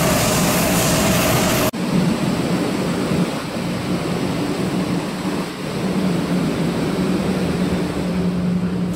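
Train running noise heard from inside a carriage: a loud steady rushing rumble that cuts off abruptly about two seconds in, then a quieter rumble with a low hum that grows stronger near the end.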